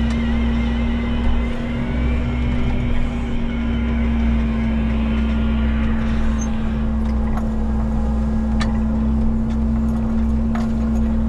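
Diesel engine of a Menzi Muck walking excavator running at a steady speed, with a few sharp knocks.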